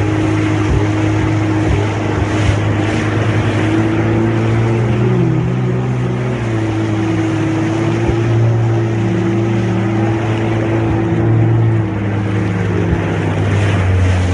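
Jet ski engine running under way, its pitch rising and falling as the throttle changes.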